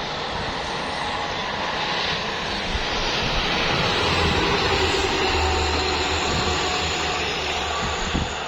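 Truck on the road: engine and tyre noise, with a low engine drone that swells from about four seconds in and eases near the end.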